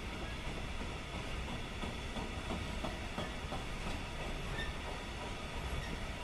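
Freight train of container-carrying flat wagons rolling steadily past, with a rumble of wheels on rail and a few light clicks of wheels over rail joints around the middle.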